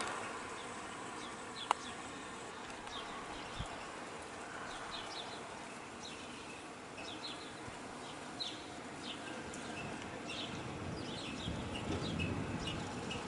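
Small birds chirping, short high calls repeated in loose clusters, over a faint steady outdoor hiss, with one sharp click near the start.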